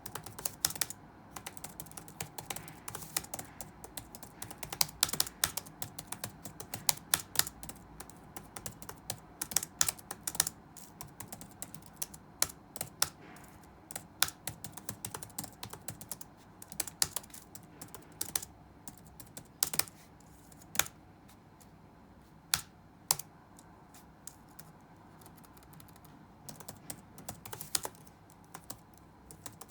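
Typing on a computer keyboard: keystrokes in irregular bursts with occasional louder single strokes. The typing thins out after about twenty seconds, pauses for a few seconds and picks up again near the end.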